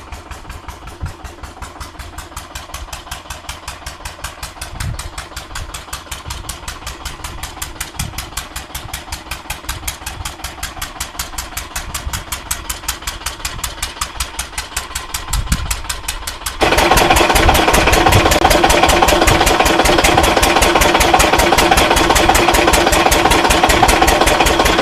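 A stationary farm engine running with a steady, rhythmic beat. About seventeen seconds in it gets abruptly much louder.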